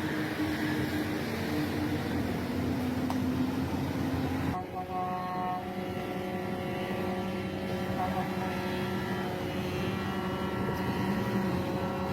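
Heavy truck engines running and straining, with a rough, noisy drone that changes abruptly about four and a half seconds in to a steadier engine hum with held tones.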